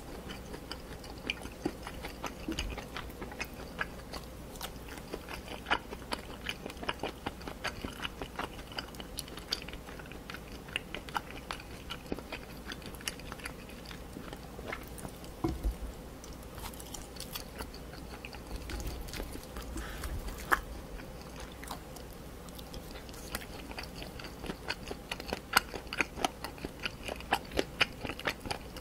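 Close-miked chewing of spicy stir-fried pork cartilage and chicken feet, many irregular crunches and wet chewing clicks, the crunches heavier and louder near the end.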